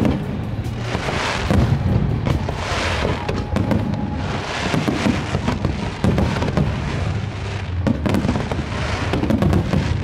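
Fireworks display: a dense run of bangs and crackling from aerial shells and fountain effects, with swells of hissing that rise and fade several times.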